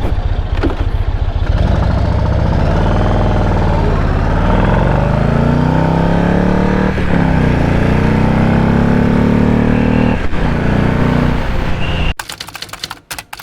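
Yamaha Stratoliner's big air-cooled V-twin accelerating on the road, its pitch climbing and dropping at gear shifts about seven and ten seconds in, with wind noise. Near the end the engine sound cuts off abruptly and rapid clicking follows.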